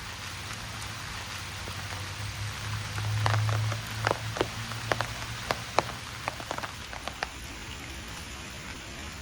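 Steady summer rain falling, with a brief low rumble swelling about three seconds in and a run of loud individual drop ticks over the next few seconds.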